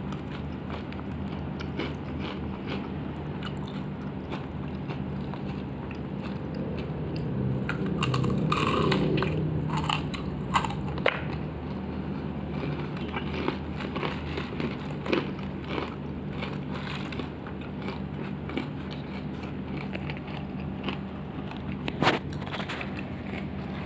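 Close-up chewing and crunching of crispy battered fried chicken, with scattered short clicks and crackles of the coating being bitten and picked apart. A steady low hum runs underneath and swells for a couple of seconds about eight seconds in.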